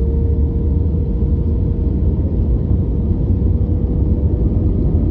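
Airplane in flight: a steady low rumble with a faint constant hum above it.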